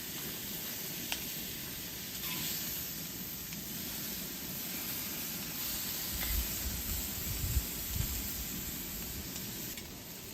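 Food frying in a pan, a steady sizzle, with a few light clicks and low knocks of handling or stirring now and then.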